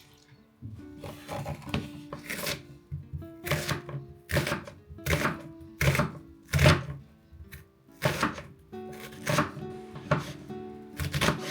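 Knife chopping on a cutting board in a run of sharp strokes, about one every two-thirds of a second with a short break near the middle, over soft background music.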